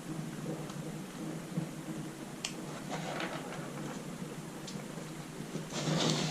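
Screws being driven back into a laptop's plastic base with a screwdriver: light clicks and faint scraping, with a louder rustling scrape near the end.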